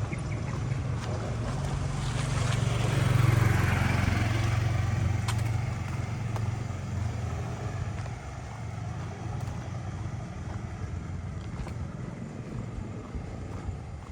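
A motor scooter's engine passing close by, growing louder to a peak about three seconds in and then slowly fading away.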